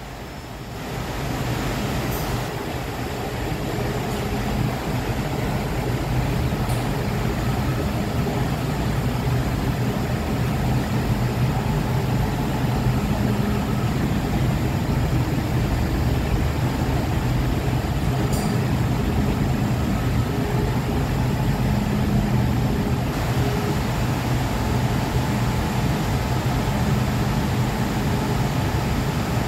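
Hong Kong MTR M-Train electric multiple unit: steady train running noise with faint motor tones, building over the first few seconds and then holding level.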